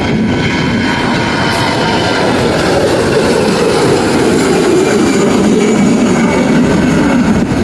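Jet airliner passing, its engines a loud steady rush with a high whine over it.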